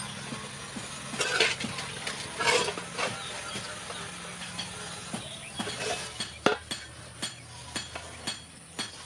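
Irregular metal scraping and light clinks on a metal pan, with two longer scrapes in the first three seconds and scattered sharp clicks after, over a faint steady low hum.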